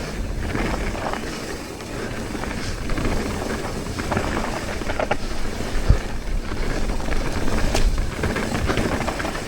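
Mountain bike rolling fast down a dirt trail: steady tyre and rattle noise over a low rumble, with a few sharp knocks as it hits bumps, loudest about six and eight seconds in.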